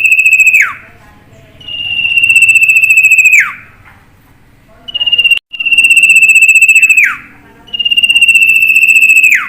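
A bird calling loudly and repeatedly: each call is a high, rapidly pulsing note held on one pitch for a second or two, ending in a sharp downward drop, about every two and a half to three seconds.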